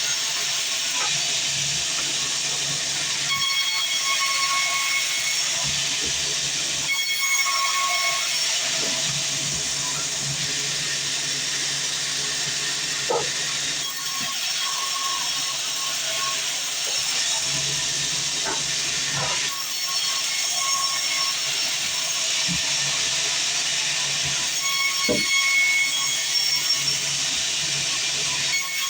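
Sawmill band saw running through a log: a steady hiss of cutting with a constant high whine over it.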